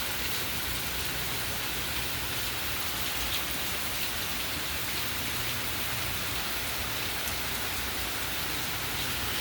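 Steady hurricane rain falling, an even hiss with no break.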